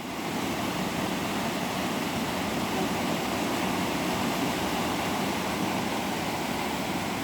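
Steady rush of water running through the gully of a pond, at what looks like a small dam or outlet.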